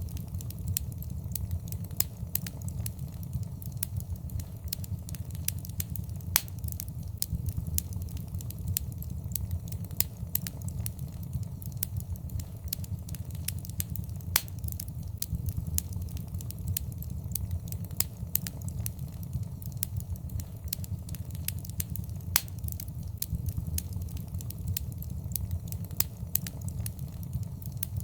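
Wood fire in a fireplace crackling, with irregular sharp pops, a few louder than the rest, over a low steady rumble.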